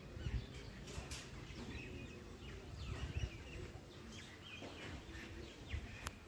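Small birds chirping in many short, scattered calls over a low rumble.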